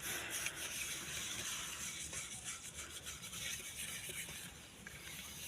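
Dishes being scrubbed by hand: a continuous rasping rub with irregular back-and-forth strokes.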